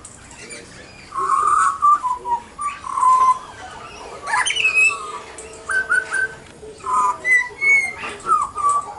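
A pied butcherbird and a young Australian magpie calling back and forth: a string of short whistled and squeaky calls, some sliding up or down in pitch, with brief gaps between them.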